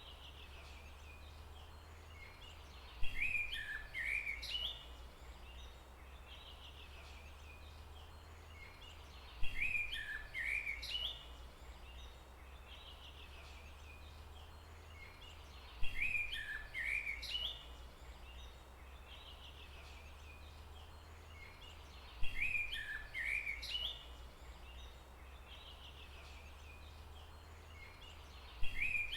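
A songbird singing a short phrase of quick, high chirping notes, each phrase about two seconds long. The phrase repeats five times at even intervals of about six seconds, over a steady low rumble.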